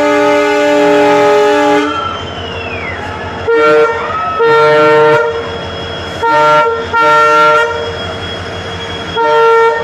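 Train horn sounding a long steady blast that cuts off about two seconds in, then short toots in pairs, three pairs in all.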